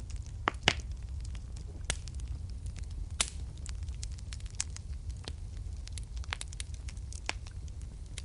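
Wood fire in a fireplace crackling: irregular sharp pops and snaps over a steady low rumble of the flames, with a few louder pops in the first few seconds.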